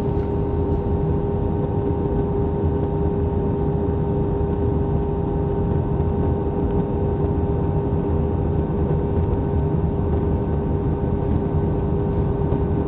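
Steady cabin noise of an airliner in flight: an even rush of engine and air noise with a constant hum running through it.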